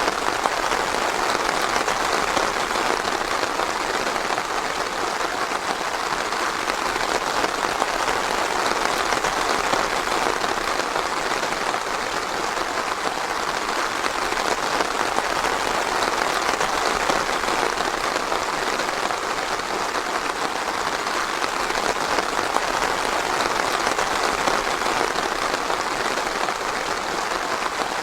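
Steady, dense rainfall: an even patter of countless drops that never lets up.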